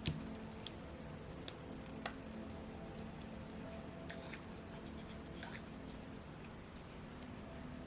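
Light clicks and taps of small metal engine parts and a hand tool, handled while rocker arms are fitted to a Saito FA-82 four-stroke model engine. The sharpest click is just at the start and a few fainter ones follow, over a faint steady room hum.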